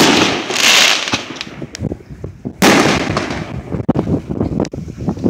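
Fireworks going off: a sharp bang at the start and another about two and a half seconds in, each followed by a hissing crackle, with scattered pops in between.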